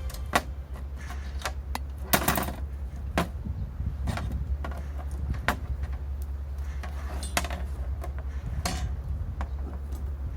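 Irregular light clicks and clinks of small metal parts being handled, a dozen or so, over a steady low hum.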